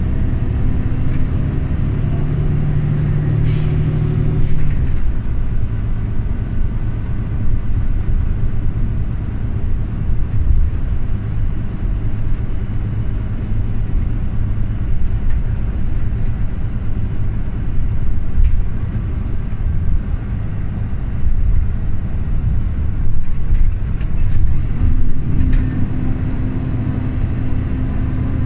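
Scania OmniLink CL94UB city bus running, a steady low engine and road rumble. A short hiss of air about four seconds in, and a steadier engine note coming in near the end.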